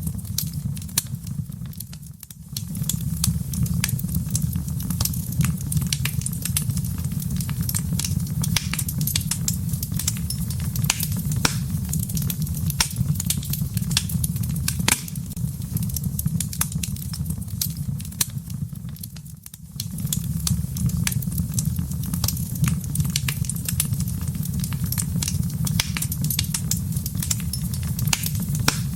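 Wood fire burning in a fireplace: a steady low rumble of flame with frequent sharp crackles and pops of burning logs. The rumble briefly drops away twice, about two seconds in and again about twenty seconds in.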